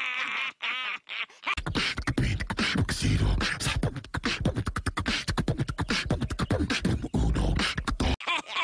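About a second and a half of wavering, warbling calls, then a long run of fast, rhythmic beatbox-style vocal percussion with heavy bass that stops abruptly near the end.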